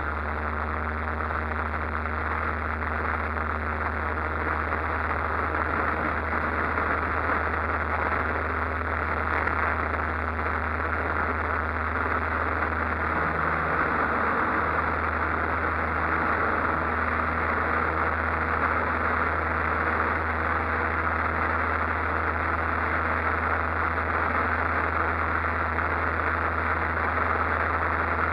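Cessna 152's Lycoming O-235 four-cylinder piston engine and propeller running at a steady power setting, a loud, even drone heard from inside the cockpit.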